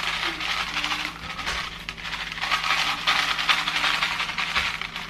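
Mini M&M candies being poured out and scattered, rattling in two spells of quick, dense clatter, the second starting about halfway through.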